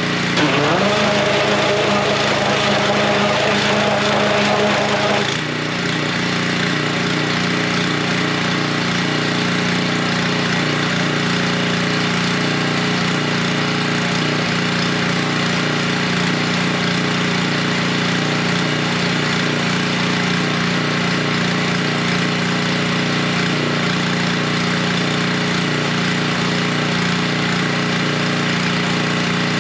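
Gas pressure washer's small engine running steadily under load. A higher whine rises in the first second and holds, then drops away about five seconds in as the sound settles into a steady run.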